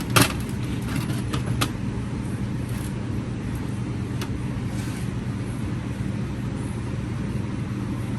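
Single-turbo Ford F-150's 5.0 V8 idling steadily just after its first start, with a few sharp cracks in the first two seconds.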